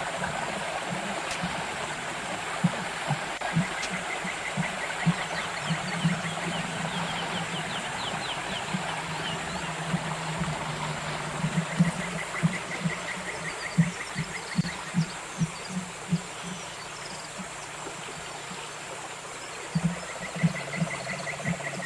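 River water running steadily, with many short low knocks scattered through it. Three times a small animal gives a fast clicking trill lasting two to three seconds.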